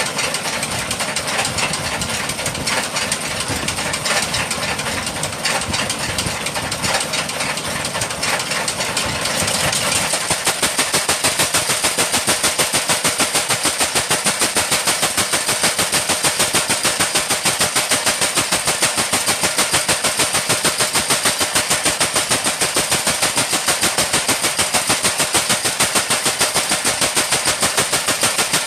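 An engine-driven machine running. The sound is uneven at first, then about ten seconds in it settles into a steady, rapid, even pulsing that carries on.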